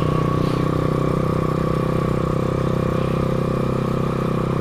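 Small single-cylinder motorcycle engine from a CD 100, fitted to a BMX bicycle, running steadily at an even speed.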